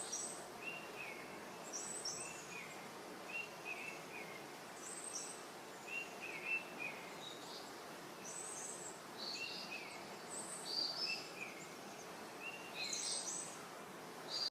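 Birds chirping over a steady outdoor hiss: short, quick notes repeating every second or two, some pitched higher than others.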